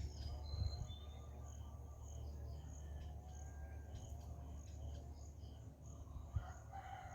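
Insects, crickets or similar, chirping high in a steady repeating rhythm of about two pulses a second, with a few short faint bird calls and a low rumble of wind or handling noise underneath.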